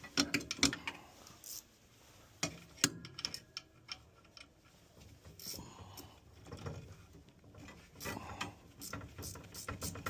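Irregular clicks and light knocks of hand work on metal fittings at a furnace gas valve, as the inlet pressure tap is opened and a manometer is hooked up.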